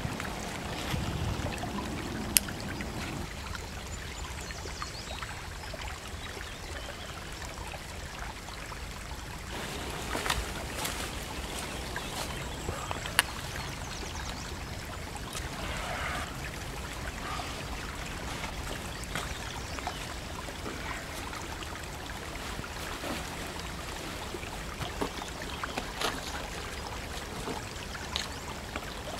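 Steady rushing background noise like running water. Over it come scattered small clicks and rustles of webbing tree straps being wrapped around a trunk and pulled tight, and a low rumble fades out in the first few seconds.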